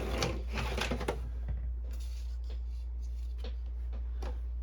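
Scattered small clicks and taps from a Canon Pixma inkjet printer being worked, densest in the first second, over a steady low electrical hum.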